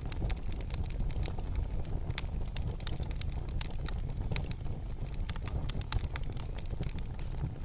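Campfire crackling: irregular sharp pops and snaps from burning wood over a steady low rumble of flame and air.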